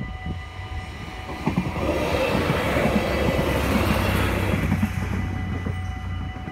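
A LINT 41 diesel railcar passes over a level crossing. Its rumble and wheel clatter swell about a second and a half in, peak, and fade again after about four seconds. The crossing's warning bells ring steadily throughout.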